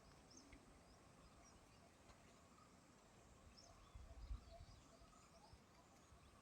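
Near silence: faint rural outdoor ambience with a few faint high bird chirps, and a brief low rumble about four seconds in.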